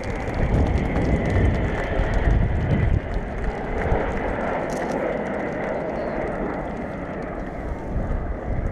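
Military jet aircraft flying past low, a loud rumble with a steady high whine; it swells about half a second in and eases slightly over the last few seconds.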